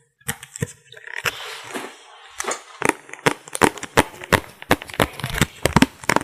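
Close-miked makeup items being handled: a dense run of sharp taps and clicks, several a second, with a brief soft rustle about a second in.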